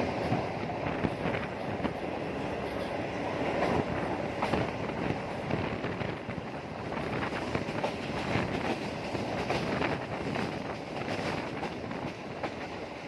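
Passenger train running along the track, heard from aboard: a steady rumble with an irregular run of wheel clicks and knocks over the rail joints.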